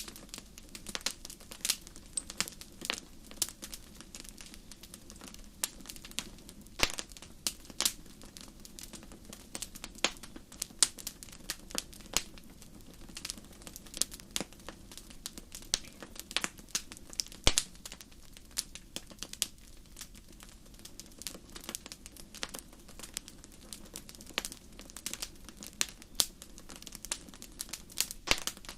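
Wood fire crackling in a fireplace: frequent sharp irregular pops and snaps over a soft steady hiss of burning.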